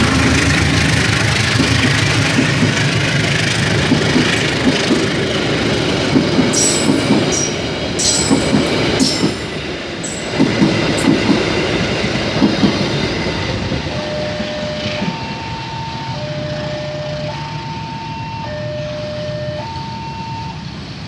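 Passenger coaches of a departing train rolling past at low speed, wheels clacking over the rail joints, with several short high wheel squeals near the middle; the rolling noise then fades. From about two-thirds of the way in, a two-tone electronic level-crossing warning alternates between a low and a high note, switching about once a second.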